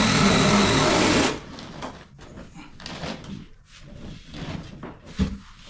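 A motor running steadily, then cutting off suddenly about a second in, followed by light knocks and clatter with one sharper thump near the end.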